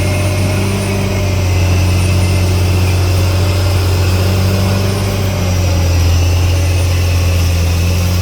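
Caterpillar D6R XL bulldozer's diesel engine running steadily with a deep drone, its note swelling slightly about a second in and again about five and a half seconds in.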